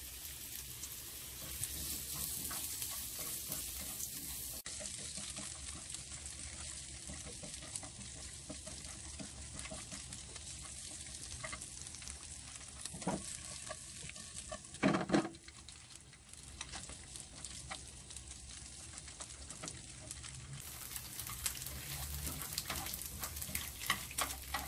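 Oil sizzling steadily as strips of hard bean curd and shredded preserved radish fry in a non-stick pan. Two short knocks come a little past the middle, the second the loudest, and there are small clicks of stirring near the end.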